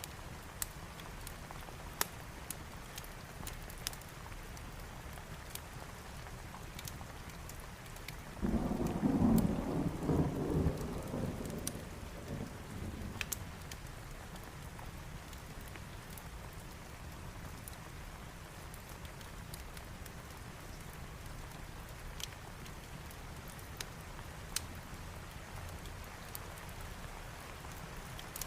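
Steady rain over a wood fire, with scattered sharp crackles throughout. About eight seconds in, a roll of thunder starts suddenly and rumbles for about four seconds before fading.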